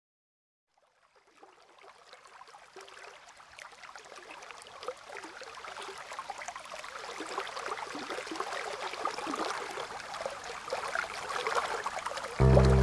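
Water trickling and splashing, fading in slowly from silence and growing steadily louder. Music with deep bass notes starts abruptly just before the end.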